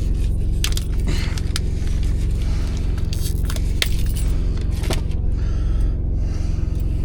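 Keys jingling and scraping as a plastic package is cut and torn open with them, with irregular crinkles and clicks, over a steady low engine hum.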